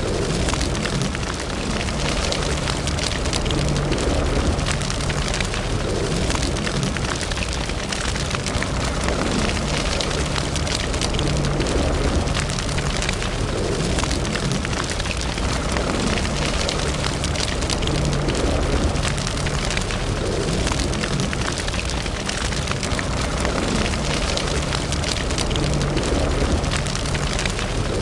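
Wood fire in a fireplace burning steadily, with dense continual crackling and snapping over a low rumble.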